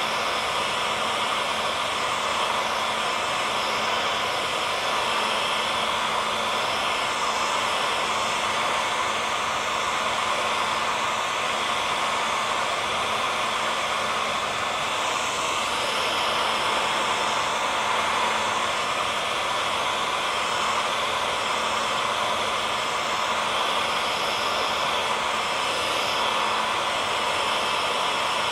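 Hair dryer running steadily: an even rush of blown air with a faint steady motor hum under it, unchanging throughout.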